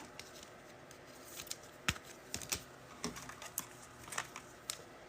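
Faint, irregular clicks and taps of trading cards being handled on a table, about half a dozen over a few seconds.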